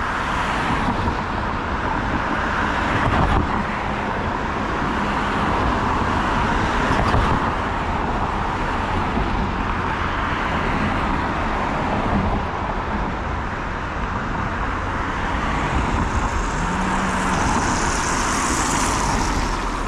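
Road traffic on a city street: cars and other vehicles driving by in a continuous rumble and tyre noise that swells and eases as they pass, with a brief hiss near the end.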